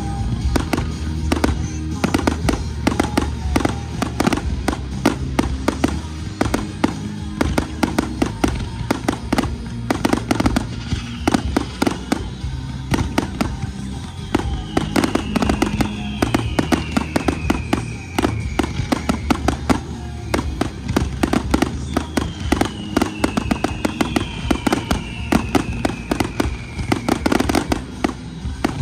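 Fireworks display set to music: rapid, dense bangs and crackling shell bursts over a steady musical soundtrack. Twice a pair of long falling whistles sounds over it, about halfway and again near the end.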